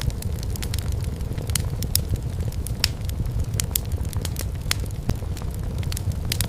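Firewood burning in a fireplace, crackling with frequent irregular sharp pops over a steady low rumble.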